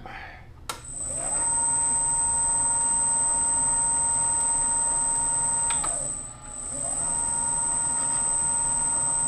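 Power drill turning a tap to cut 8-32 threads in a model engine crankcase. After a click the motor spins up to a steady whine, winds down about six seconds in, then spins up again and runs steadily.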